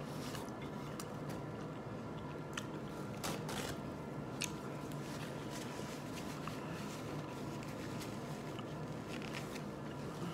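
A person chewing a bite of steak close to the microphone, with scattered mouth clicks, over a steady low hum.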